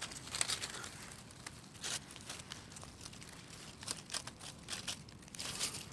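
Irregular crunching and crinkling of dry leaf litter underfoot, with scattered sharp crackles.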